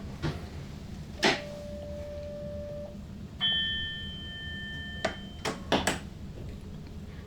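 Sharp clicks in a train cab over a steady low hum. The loudest click is followed by a steady ringing tone for about a second and a half, a higher electronic tone sounds for about a second and a half midway, and a quick run of clicks comes near the end.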